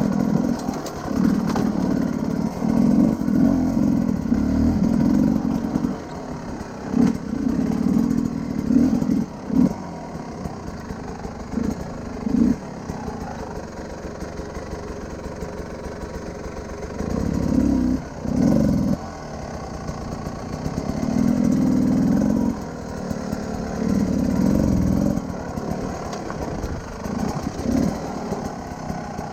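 Enduro motorcycle engine under on-off throttle: repeated surges of revs lasting a second or two, dropping back to a low idle between them.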